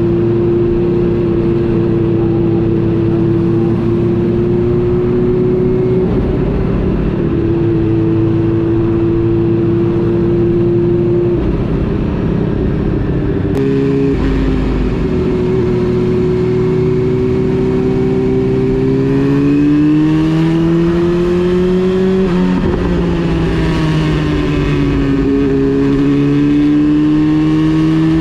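Honda CB400 Super Four Revo's inline-four engine running on the road, with several gear changes. The pitch holds steady for stretches, climbs as the engine revs up about two-thirds of the way through, then drops after a shift.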